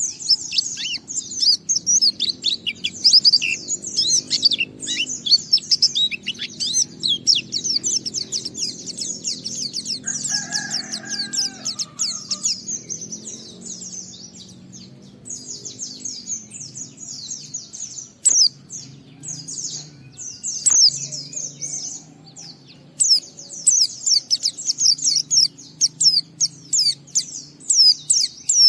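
White-eye (pleci) singing its long, rapid twittering song of thin, high chirps. The song comes in dense runs, thins out in the middle and picks up again near the end, over a faint low hum.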